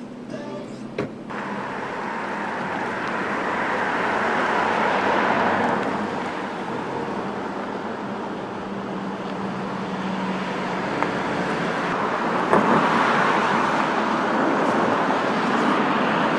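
Cars driving past, their tyre and engine noise swelling twice as each one goes by.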